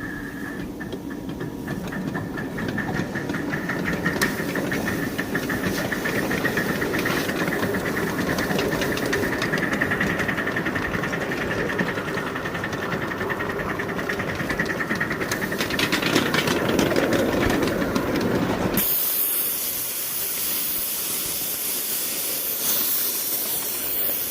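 Steam from a 5-inch gauge live steam locomotive: a steady hissing, rattling steam sound with a faint steady tone. About 19 s in it gives way abruptly to a loud, sharp hiss of escaping steam.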